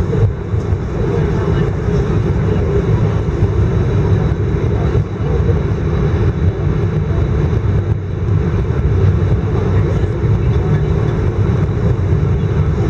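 Steady low rumble inside the passenger cabin of an Airbus A319 on the ground after landing: the airliner's engines and air-conditioning running, heard through the cabin.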